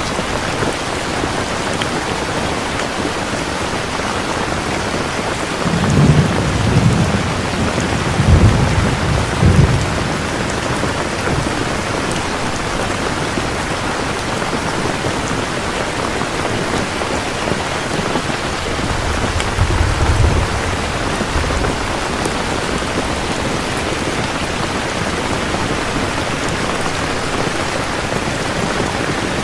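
Steady rain, with rolling low thunder rumbling about six seconds in for several seconds, and a shorter rumble again about twenty seconds in.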